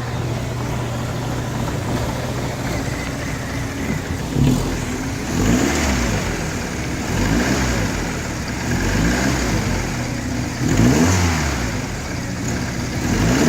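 2010 Mini Cooper's 1.6-litre four-cylinder engine idling steadily, then revved about five times from about four seconds in, each rev climbing and dropping back toward idle.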